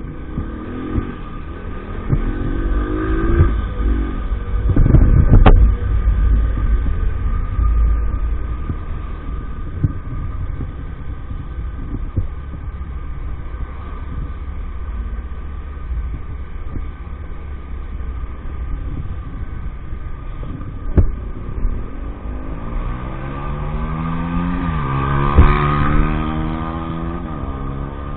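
EAYS Pro 50cc moped's engine running on the move under a heavy rumble of wind on the microphone. There are two sharp knocks, one about five seconds in and one past the twenty-second mark, and the engine revs up and back down near the end.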